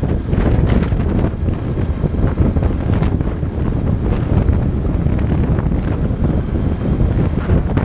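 Loud wind buffeting the microphone of a moving motorcycle, a steady low rumbling rush that covers the bike's own sound.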